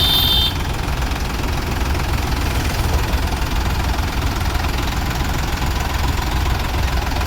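Sonalika DI 55 tractor's diesel engine idling steadily with a deep, even rumble.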